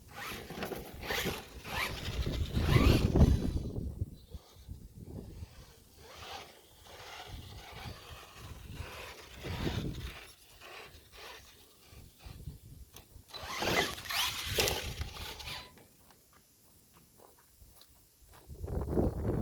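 Electric RC monster truck driving in bursts: motor and drivetrain whine with tyre noise, surging loudest twice and dropping away in between.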